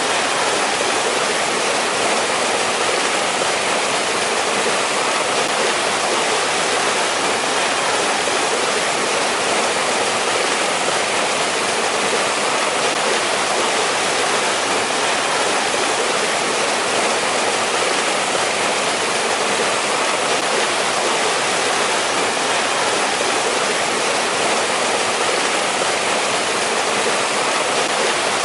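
Mountain stream in winter rushing over rocks: a steady, unbroken wash of flowing water.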